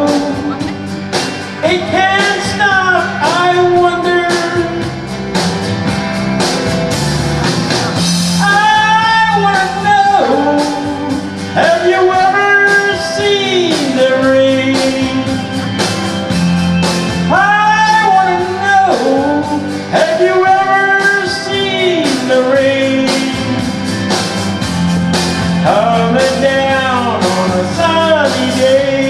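Rock song: a male lead voice sings phrases over electric guitar, bass and drums, with a steady beat.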